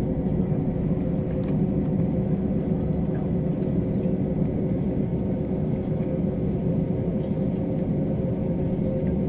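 Steady low rumble of an Airbus A320's cabin as the jet taxis after landing, engines at idle, with a faint steady two-note hum over it.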